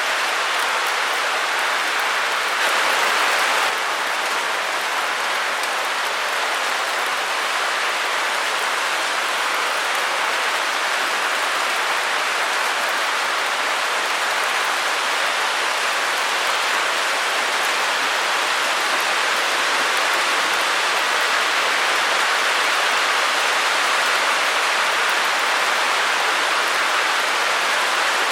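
Steady white-noise hiss, even and unchanging, with little low rumble and a brief slight rise in level about three seconds in.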